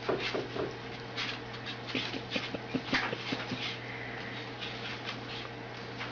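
An animal making soft squeaks and whimpers among short, irregular clicks and scratches, over a steady low hum, with a faint whistle-like glide about four seconds in.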